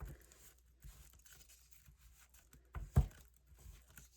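Paper being worked with a glue brush: faint scratching and rustling, with two soft knocks in quick succession about three seconds in.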